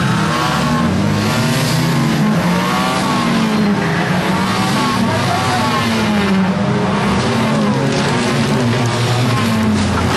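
Several 1600cc banger racing cars' engines running hard together, their pitches rising and falling over one another as the cars lap the track.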